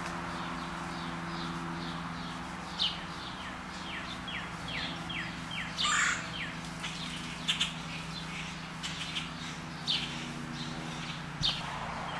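A bird chirping over and over, short chirps that fall in pitch, about two or three a second. About six seconds in there is a brief splash of water as a blue jay flaps in a birdbath, and a steady low hum runs underneath.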